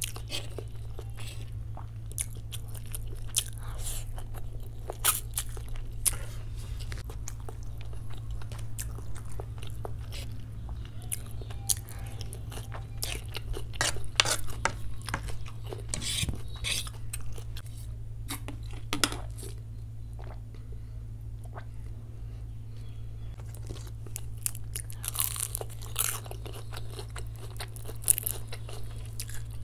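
Close-miked chewing of chow mein noodles and vegetables: moist mouth clicks and crisp crunches, over a steady low electrical hum.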